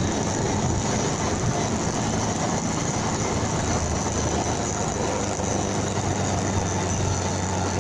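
Motorcycle under way: the engine's steady low hum under an even rush of wind and road noise.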